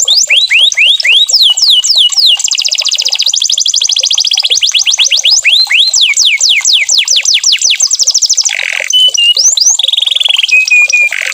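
Domestic canary singing loudly: fast trills of repeated downward-sweeping notes that switch phrase every second or two, with a brief raspy note and a few short held whistles near the end.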